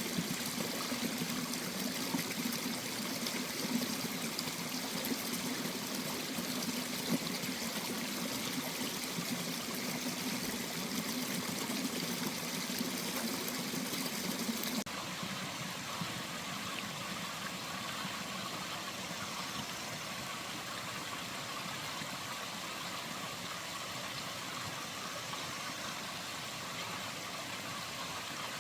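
Valley stream flowing steadily. About halfway through it cuts abruptly to a different, slightly quieter stretch of running water.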